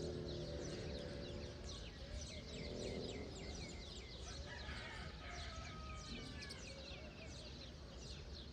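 A chorus of many small birds chirping rapidly over a steady low background rumble, with a lower, drawn-out call at the start and again about three seconds in.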